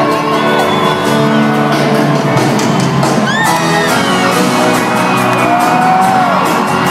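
A live sertanejo band playing in a large hall, with audience whoops and shouts over the music: short rising-and-falling cries a little past three seconds in and again around six seconds in.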